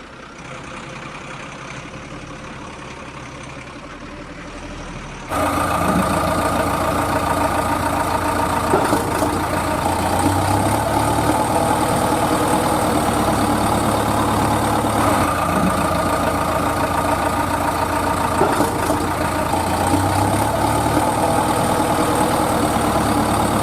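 Tractor engine sound running steadily at idle. It jumps abruptly louder about five seconds in, then holds steady with a pattern repeating every few seconds.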